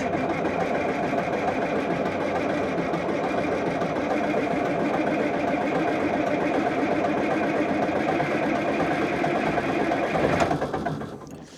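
Komatsu D75-S track loader's diesel engine turning over on the starter without catching, on jump-started, run-down batteries. The cranking is steady and rhythmic and stops about ten and a half seconds in. The owner thought it was about to fire.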